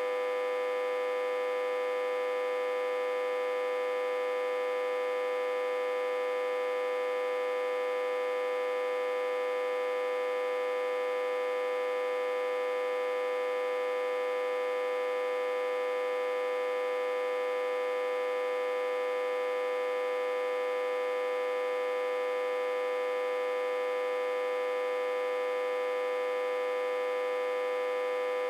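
Autotransformer backfed through a step-down transformer at about 60–80 V input, humming steadily. One strong mid-pitched tone with many overtones, unchanging throughout.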